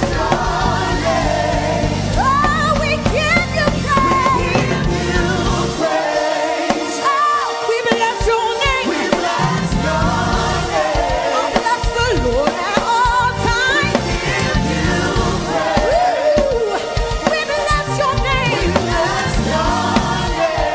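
Live gospel worship music: a singer's voice sweeping and wavering over the instrumental accompaniment. The bass drops out about six seconds in and comes back a few seconds later.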